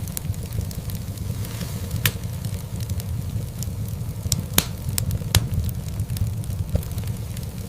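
Wood fire crackling in a fireplace over a steady low rumble, with a few sharp pops, the loudest about four and a half seconds in.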